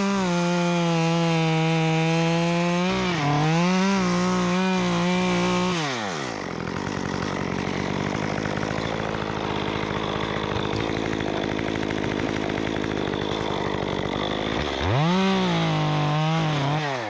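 Stihl MS 194T two-stroke top-handle chainsaw with a 1/4-inch chain conversion, cutting at full throttle, its pitch dipping repeatedly under load. About six seconds in it drops to idle, then is revved again briefly near the end.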